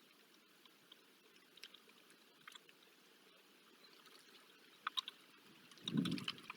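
Sparse faint ticks of freezing rain striking the nest box, a few clustered together. About six seconds in, a louder bout of low rustling and scraping comes in.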